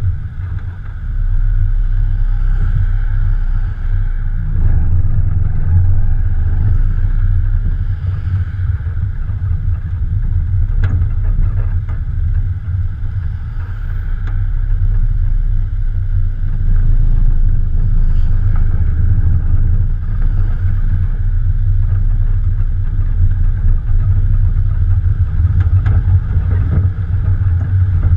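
Morgan Plus 4's Ford 2.0-litre four-cylinder engine running, heard from the bonnet as a steady deep rumble with a short dip in level about a second in.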